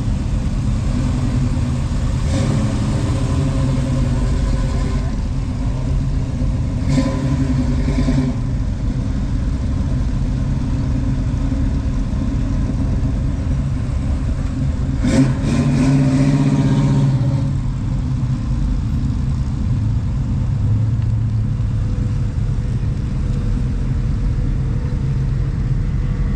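Car engine running with a steady low rumble, swelling louder about fifteen seconds in as it revs or drives past.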